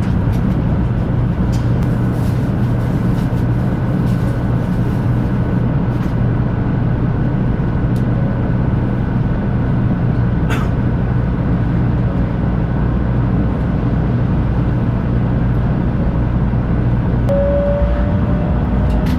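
Steady running noise of a 500 Series Shinkansen heard from on board: a loud, even rumble with a low hum and a faint high tone. A single click comes about halfway, and a faint rising whine starts near the end.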